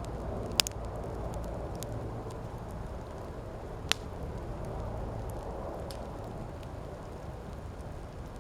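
Wood campfire burning with a steady low rushing, scattered small crackles and two sharp loud pops, one just after the start and one about four seconds in.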